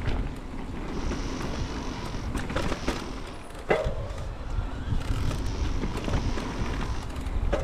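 Mountain bike rolling fast over a dirt trail: steady tyre rumble and wind on the microphone, with the bike rattling and clicking, and one sharp clank about three and a half seconds in.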